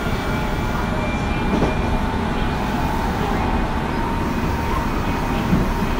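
Running sound recorded aboard a Tobu 9050 series electric train with Toyo GTO-VVVF control while it travels between stations: a steady rumble of wheels on track, with faint steady tones above it.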